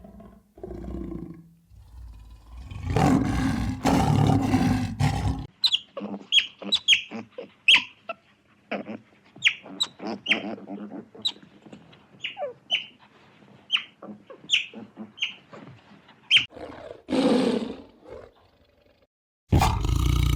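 Wild animal calls: low rough growls at the start, then a long run of short high squeaking calls, each dropping in pitch, and one longer call near the end.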